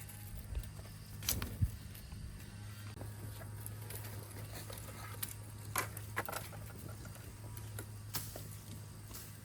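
A few scattered sharp clicks and knocks over a steady low hum.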